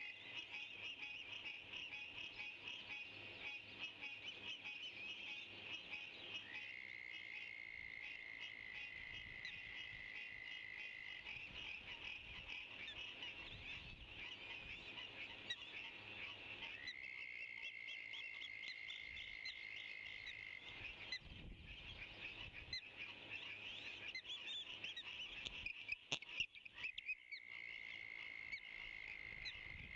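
A dense outdoor chorus of calling frogs, many short high calls overlapping. A steady high trill holds for about four seconds at a time and comes back several times. A few sharp louder clicks come in near the end.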